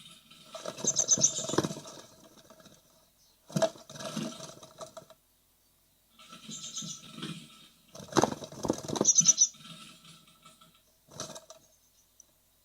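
Great tit nestlings scrabbling and fluttering in the nest, claws scraping and knocking on wood in several bursts, with short high-pitched calls about a second in and again around nine seconds.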